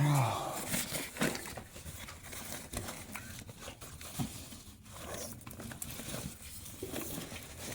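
Dog eating dry kibble from its bowl: irregular crunching and small clicks against the bowl.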